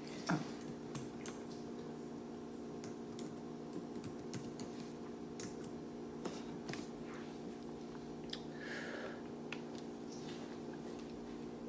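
Quiet eating sounds: chewing and biting on sushi and noodles, with scattered small clicks, over a steady low hum.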